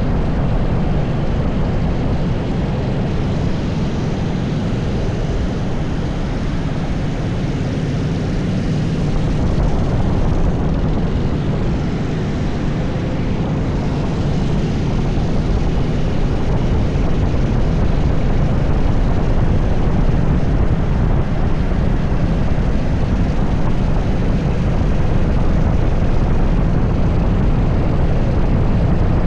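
80cc racing kart engine running hard through a lap, heard onboard with wind rushing over the microphone; a steady, dense drone that gets slightly louder in the second half.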